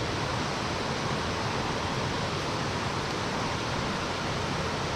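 Steady rushing of stream water, an even noise with no breaks.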